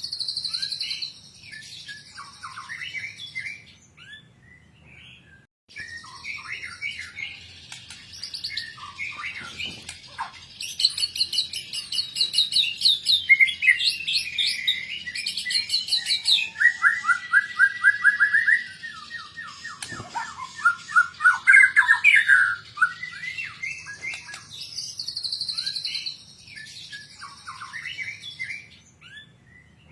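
White-rumped shama (murai batu) singing a long, varied song packed with mimicked phrases: quick whistles, chirps and fast trills in bursts separated by short pauses. A run of rapid repeated notes comes about midway.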